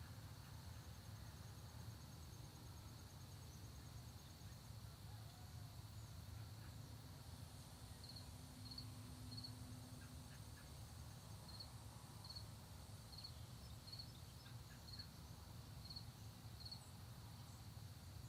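Faint early-morning countryside ambience: insects keep up a steady high drone, with a fine, rapid trill above it near the start and again midway. From about eight seconds in, short high chirps repeat roughly once a second over a low steady rumble.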